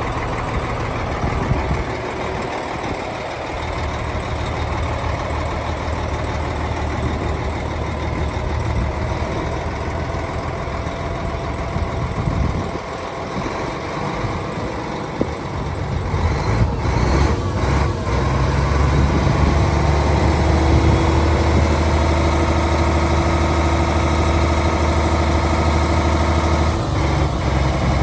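Hyundai tractor truck's 12.3-litre six-cylinder diesel engine running steadily at idle, louder from about two-thirds of the way in, with a few brief sharp sounds a little past halfway.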